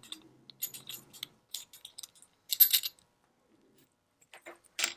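Small metal watch parts and tools clicking and clinking on a workbench in a run of light taps, the loudest a clink with a brief high metallic ring a little past halfway, and another sharp click near the end.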